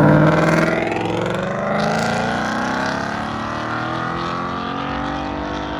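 A car's engine accelerating hard as it pulls away, its note climbing in pitch, loudest at the start.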